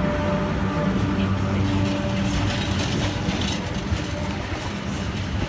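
Class 86 electric locomotive running past with a steady electric hum that fades after about two seconds. Empty container flat wagons then roll by, rattling and clattering over the rail joints.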